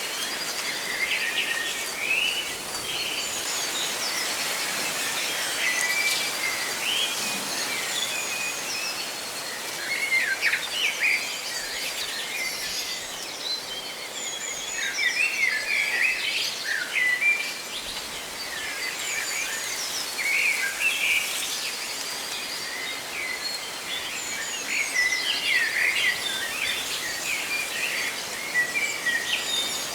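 Many birds chirping and singing over a steady rustling hiss of leaves in the wind, in quick overlapping calls.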